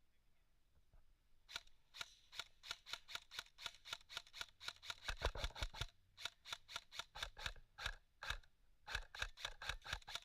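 Airsoft rifle firing a quick string of single shots, about four sharp clacks a second, with two short breaks.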